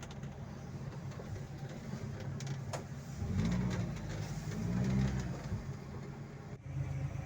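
Toyota 1NZ-FE 1.5-litre four-cylinder petrol engine of a tracked-style all-terrain vehicle running low under the cab, with two brief rises in revs about three and five seconds in.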